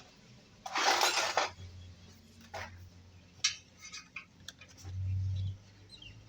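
Metal parts and tools clinking during motorcycle chain and sprocket work, with a short scraping rustle about a second in and a few sharp clicks after it.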